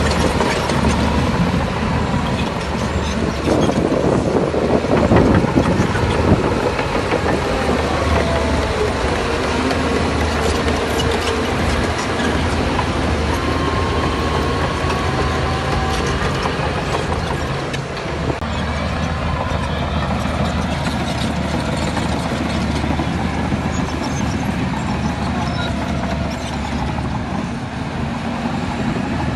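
Heavy diesel earthmoving machinery running steadily under work. The sound swells for a couple of seconds about four seconds in and changes character around eighteen seconds in.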